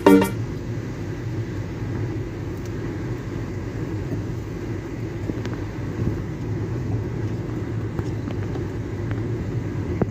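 Music cuts off just after the start, leaving a steady low outdoor rumble with a few faint ticks.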